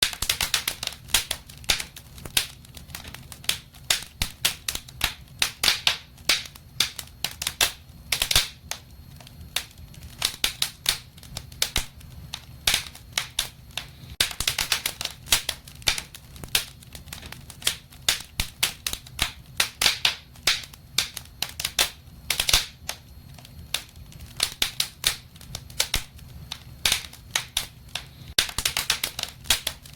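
Wood fire burning in a fireplace, crackling and popping with irregular sharp snaps, some in quick clusters, over a low steady rumble of the flames.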